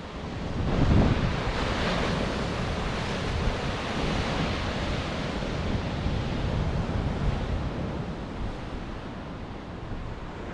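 Atlantic surf washing onto the shore, with wind buffeting the microphone. The wash swells in the first second or two and eases slightly near the end.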